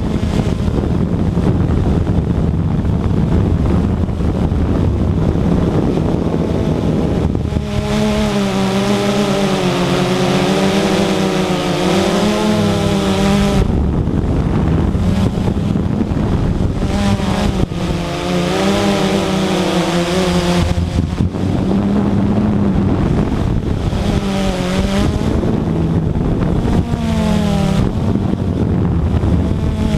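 Radio-controlled model aircraft motor making three passes, its pitch rising and falling with each pass, over a constant low rumble of wind on the microphone.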